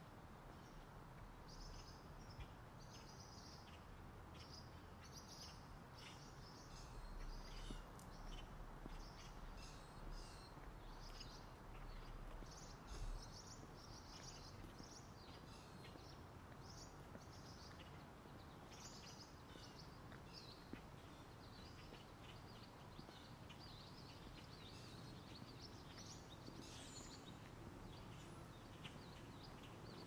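Faint birdsong: many birds chirping and calling in short, repeated phrases throughout, over a steady low background hum.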